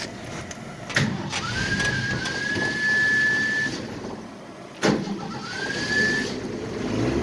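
1966 Ford F100 being restarted cold without its choke hooked up: two clunks, each followed by a high whine that rises and then holds steady, the first about two seconds long and the second about one, with the engine's low rumble building near the end.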